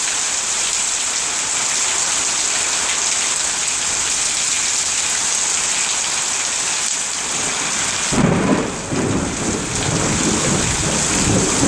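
Heavy rain falling steadily as a dense hiss. About eight seconds in, a sudden low rumble of thunder breaks in and keeps rolling.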